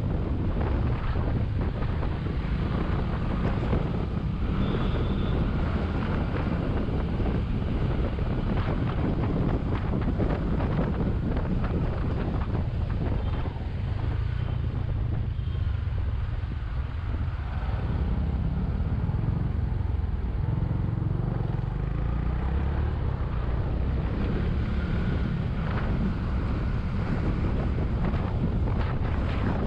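Wind buffeting the action camera's microphone on a moving motorcycle, a steady low rumble with the bike running underneath.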